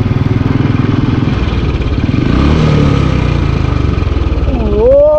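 Royal Enfield Bullet's single-cylinder engine running under way, with a steady, evenly spaced thump. The pitch shifts about halfway through as the throttle changes.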